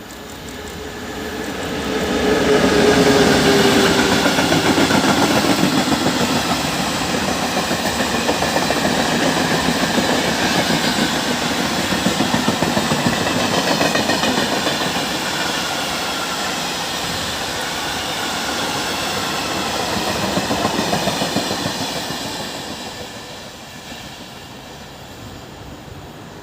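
Freight train of flat wagons behind an EU07 electric locomotive rolling past, its wheels clattering steadily over the rail joints. It swells about two seconds in and fades away near the end.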